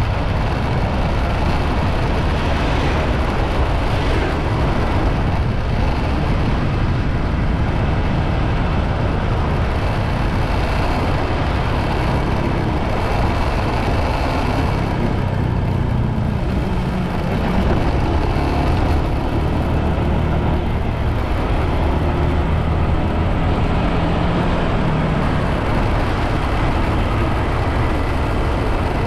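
Motorbike riding along the road: steady wind and road noise with the engine running beneath, its tone coming through more clearly in the second half.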